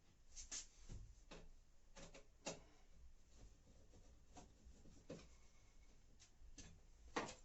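Faint, irregular clicks and light scrapes of a screwdriver working out the two rear screws that hold a washing machine's top cover.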